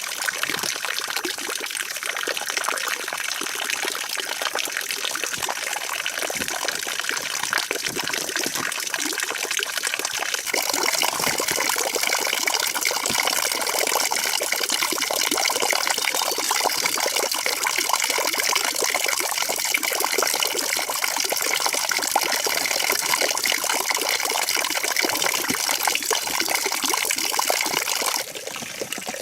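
Water running steadily, growing louder about a third of the way in, then dropping suddenly near the end.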